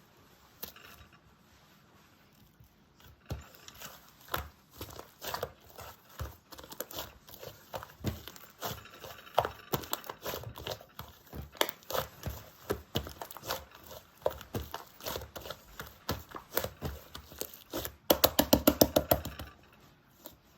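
Slime being squeezed, stretched and pressed by hand, giving irregular sticky clicks and air-bubble pops, with a quick run of loud pops, about seven a second, near the end.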